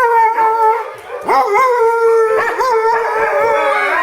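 Pit bull howling: a long held howl that breaks off about a second in, then starts again with a rising scoop and carries on, wavering in pitch.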